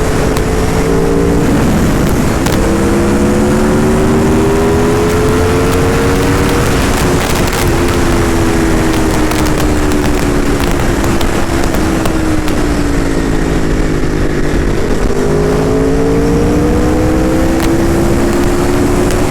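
Aprilia RSV4 RF's V4 engine under way, its pitch climbing as it accelerates with a brief break about two seconds in, falling slowly as the revs come down, then climbing again near the end, over steady wind rush.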